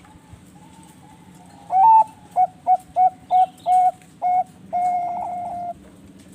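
Zebra dove (perkutut, Bangkok song strain) cooing its song: a loud opening note, then six short clipped coos in quick even succession, ending in one longer held coo. Fainter coos from another dove and a few faint high chirps sit in the background.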